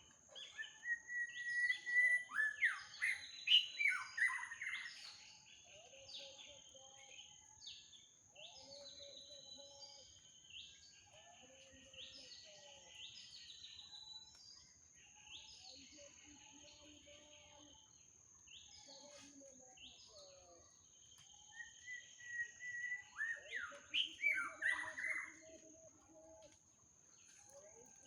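Several birds chirping and calling together in a mixed chorus, busiest in two flurries, a few seconds in and again near the end, over a steady high-pitched whine.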